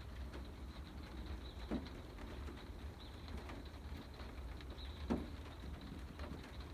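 Rain pattering steadily on an Aliner A-frame camper, with two heavier drips knocking a few seconds apart.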